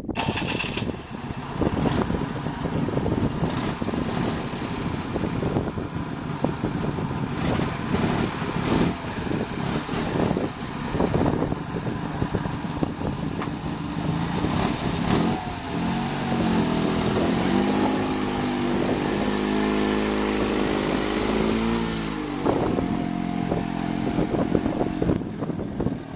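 Homemade mini tractor's UD-25G engine running, with irregular knocks and clatter; past the middle its note steadies higher for several seconds, wavering up and down, before dropping back.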